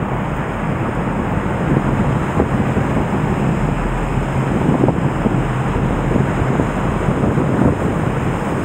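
Floodwater of the typhoon-swollen Nagara River rushing past in a loud, steady, unbroken noise.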